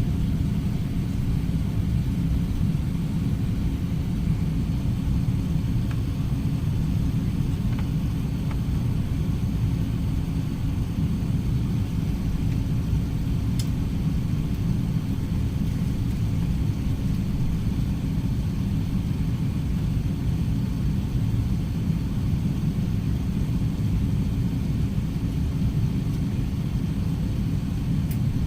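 Steady low cabin rumble of an Airbus A380-800's four jet engines and airframe, heard from inside the passenger cabin, with no rise or fall in level and a couple of faint clicks.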